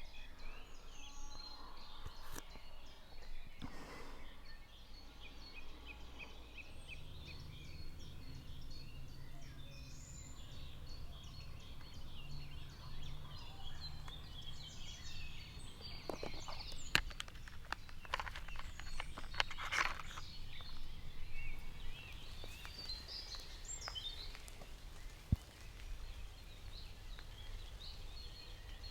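Songbirds chirping and trilling in woodland, with a low steady hum coming in about a quarter of the way through and a few sharp clicks or rustles around the middle.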